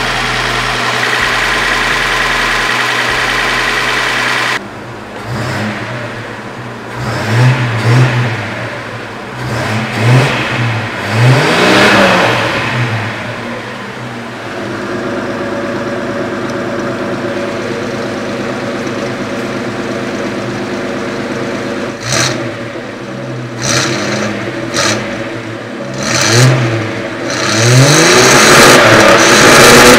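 Datsun L20A straight-six engine running on LPG. It is revved in repeated blips that rise and fall in pitch, settles to a steady idle in the middle, and is revved hardest near the end.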